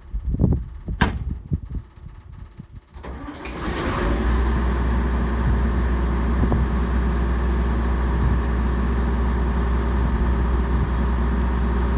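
A few knocks and clicks, then about three seconds in a farm machine's diesel engine starts and settles into a steady run with a strong low drone.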